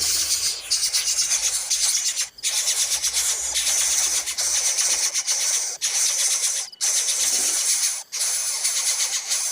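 Harsh, hissing rasping calls from bird chicks begging, kept up almost without a break and stopping only briefly a few times.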